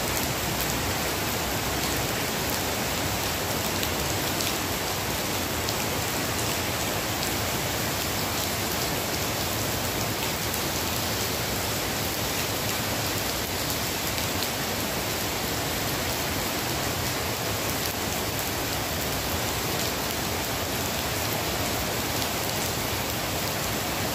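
Steady rain falling on wet paved ground and palm leaves: a dense, even hiss of drops that keeps the same level throughout.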